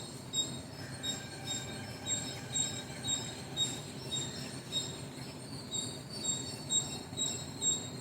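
Birds chirping, one of them repeating a short, high note about twice a second, over a faint steady low background hum.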